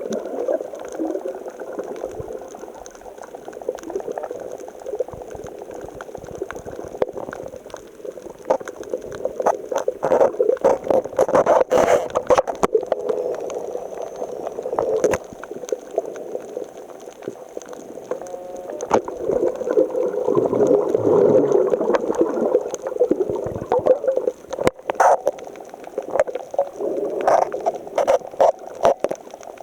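Seawater surging and gurgling among shore rocks, heard muffled, with a scatter of sharp clicks. It swells louder about a third of the way in and again just past the middle.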